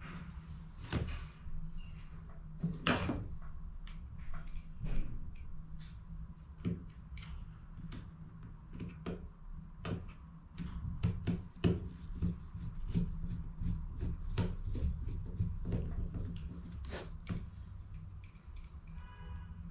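Irregular clicks, taps and scrapes of hands working on plastic HP CE285A laser toner cartridges, with a short fast rattle near the end. A steady low hum runs underneath.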